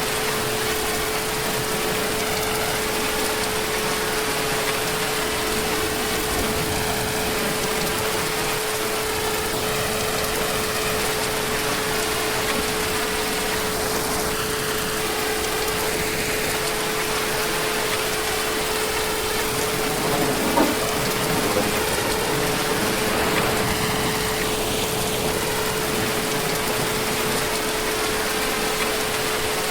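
Heavy rain falling steadily, a dense even hiss, with a steady hum tone underneath it. There is one brief tap about two-thirds of the way through.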